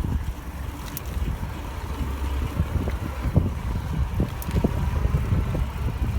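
Wind buffeting the microphone as a low, uneven rumble, with scattered small clicks and knocks.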